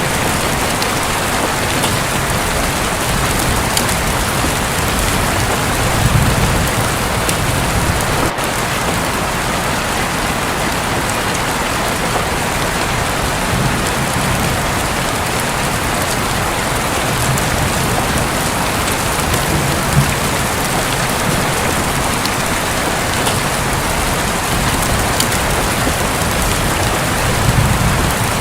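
Heavy rain falling steadily on a roof, a dense even hiss of drops. Low rumbles of thunder swell briefly about six seconds in and again near the end.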